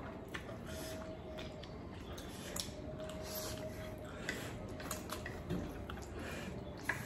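Wet, close-up chewing of noodles: irregular smacking mouth sounds and small clicks.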